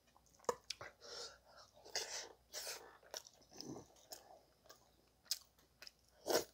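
Soft close-up chewing and mouth noises of someone eating curry rice, with a few sharp clicks of a metal spoon against a stainless steel bowl.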